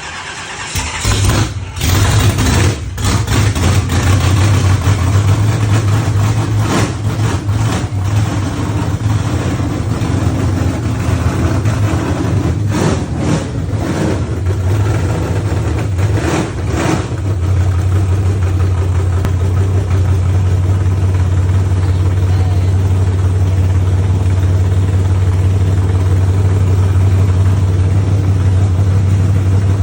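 1977 Chevy truck's 350 small-block V8 starting up, catching about a second in and then running. It runs unevenly with a few surges through the first half, then settles into a steady idle.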